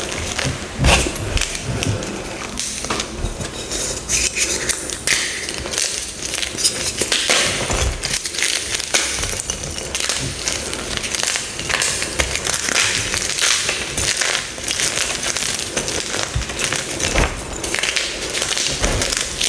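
Dyed gym chalk blocks being crushed, a steady run of crisp crunching and crumbling crackles.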